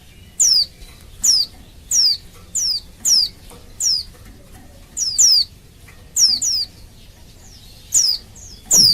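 Female white-eye (pleci) calling: about a dozen short, high, downward-sliding notes in an uneven series, some in quick pairs. It is a female's call to males, used to set male white-eyes calling and singing.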